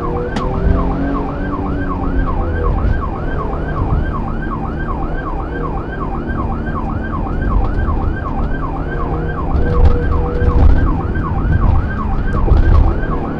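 Police car siren in a fast yelp, sweeping up and down about three times a second without pause, over the patrol car's engine and road rumble. A few louder knocks and bumps come in near the end.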